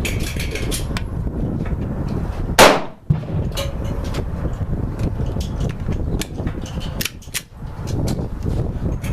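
A single shot from a Girsan MC21 9mm semi-automatic pistol about two and a half seconds in, with fainter sharp cracks scattered around it and a steady low rumble of wind on the microphone.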